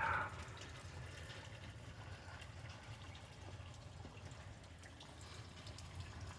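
Rain that has eased after a hard downpour, falling and dripping steadily, with a brief louder splash or rustle right at the start.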